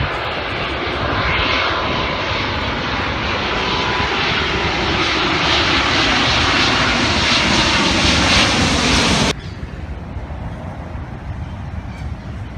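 Loud, steady engine-like rushing noise that swells slightly and then cuts off abruptly about nine seconds in, leaving a much quieter background.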